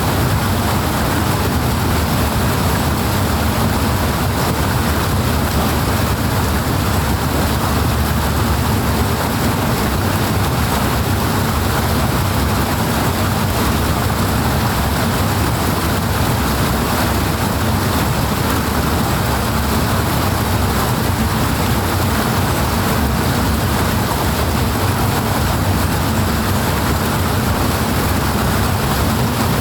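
Powerful water rushing and churning, a loud, steady roar with a heavy low rumble that never changes.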